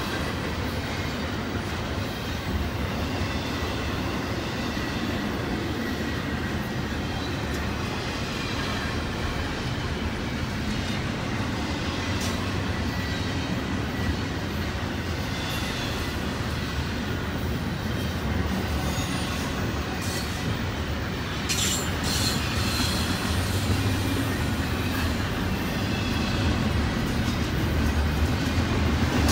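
Double-stack intermodal container well cars rolling past at speed: a steady rumble of steel wheels on rail, with faint high wheel squeal and a few sharp clicks about two-thirds of the way through.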